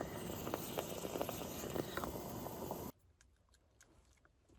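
Heavy rain and hail drumming on a van's roof, a dense patter of small hits. It cuts off suddenly about three seconds in, leaving only a few faint ticks.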